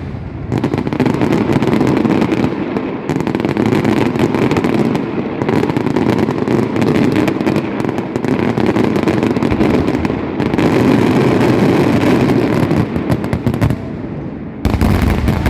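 A rapid barrage of firecrackers and fireworks going off so densely that the bangs merge into continuous crackling. Heavier, deeper bangs set in near the end.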